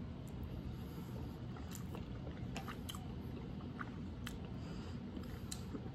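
A person chewing a mouthful of salmon rice bowl: faint, scattered wet mouth clicks over a low steady hum.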